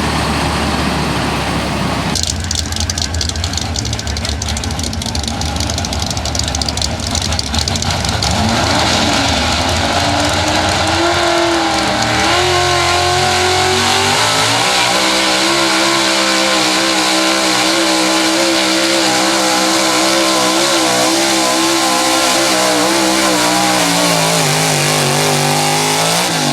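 Big-block pulling truck engine making a pull: it climbs in revs, holds high and wavering at full throttle for about ten seconds, then drops off sharply near the end as the throttle is let off.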